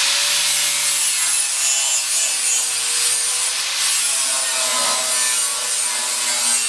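Angle grinder grinding down the cut edge of a steel pickup box, a loud, steady grinding hiss over the motor's whine, its pitch sagging and recovering as the disc bites into the metal.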